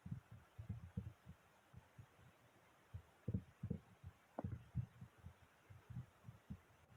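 Slime being pressed and squished by hand, making soft, dull, irregular thumps several times a second, with one sharper squish about four and a half seconds in.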